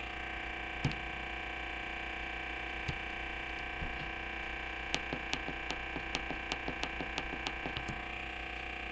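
Maytag MVW5035MW2 top-load washing machine clicking instead of running: a few separate clicks, then a quick run of clicks, about five a second, for about three seconds, over a steady hum. The clicking in place of the motor running is the fault being shown.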